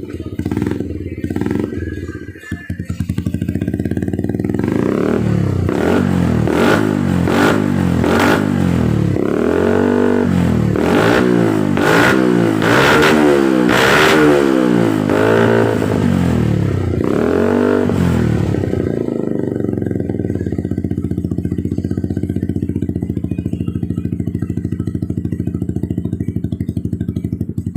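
Motorcycle engine running through a newly fitted WRX aftermarket exhaust. After uneven running for the first few seconds, it is revved up and down over and over for about a dozen seconds, then settles into a steady idle.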